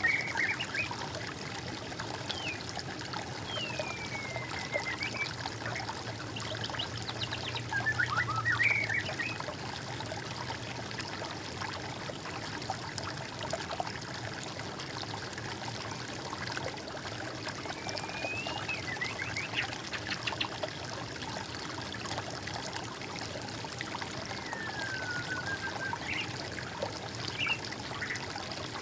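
Water trickling steadily, with songbirds calling over it: short falling whistles and chirps every few seconds.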